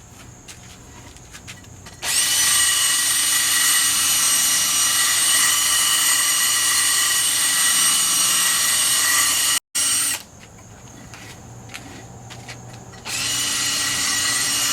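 Power tool motor running at a steady high whine, in two long runs: from about two seconds in until an abrupt cut, and again near the end.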